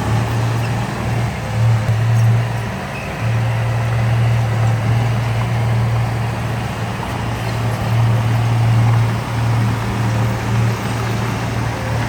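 Heavy diesel engine of earth-moving machinery running under load, a steady low drone that swells and eases slightly.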